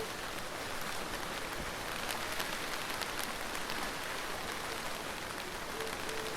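Steady rain falling: a dense, even hiss with many separate drops ticking on a surface.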